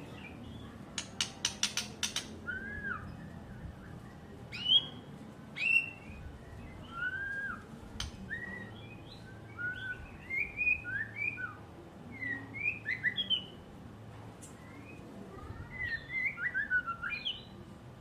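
White-rumped shama singing: a string of short, varied whistled notes that slide up and down, with a quick run of about eight clicks near the start.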